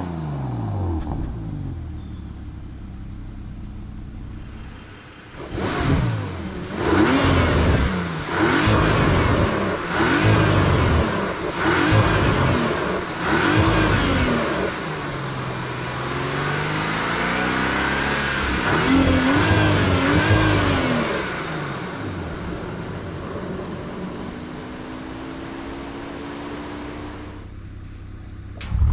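Bentley Flying Spur Speed's 6.0-litre twin-turbo W12 engine under hard driving. It is quieter at first, then its note climbs and drops again and again as the car accelerates and eases off, and it settles to a steadier, quieter pull near the end.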